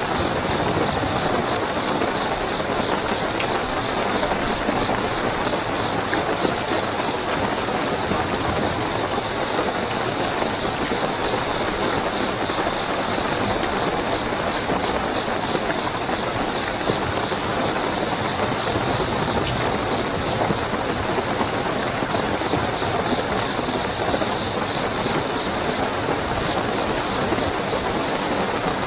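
Steady heavy rainfall with crickets trilling in a continuous high tone.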